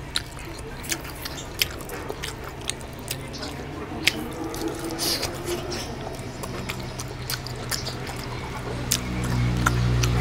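Wet, sticky chewing and lip-smacking of someone eating oily mutton curry with rice, with a string of sharp clicks throughout. From about six seconds in a low droning tone comes in underneath and grows louder near the end.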